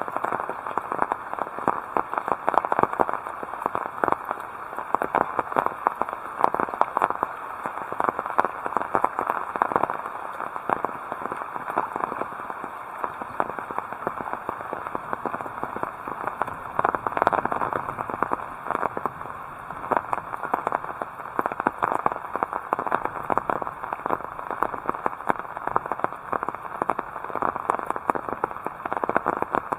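Heavy rain: a dense, steady crackle of drops striking close by.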